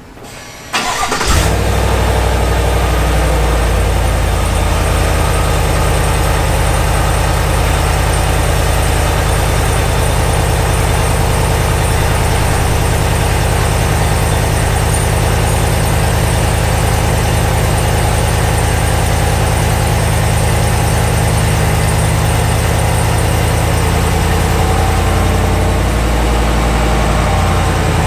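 Cold start of a GMC Sierra AT4's 6.2-litre V8 through its stock exhaust: the starter cranks briefly, the engine catches about a second in and settles into a steady, loud fast idle, its pitch easing down slightly a few seconds later.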